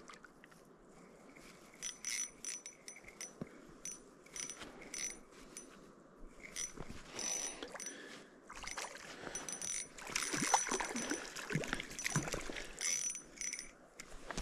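Fishing reel being cranked in short runs of quick metallic clicks with a faint ring while a hooked cutthroat trout is brought in. Denser scuffling and splashing noise takes over in the second half as the fish comes close.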